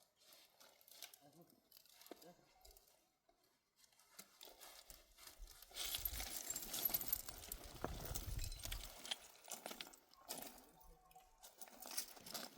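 Hooves of pack donkeys clopping and scuffing on rocky ground, faint at first and louder from about five seconds in.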